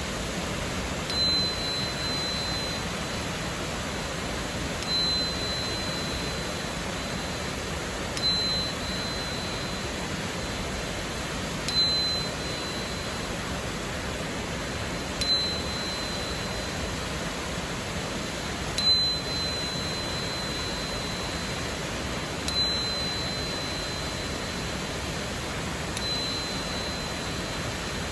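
A 4096 Hz quartz crystal tuner is struck about every three and a half seconds, eight times, each strike giving a single high, pure ringing tone that dies away over a second or two. Steady rushing water from a waterfall runs underneath.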